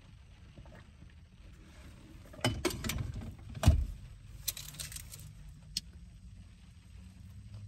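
Handling noise of food and containers during a meal: a run of clicks and knocks starting about two and a half seconds in, a heavy thump about a second later, then lighter sharp clicks, over a faint steady low hum.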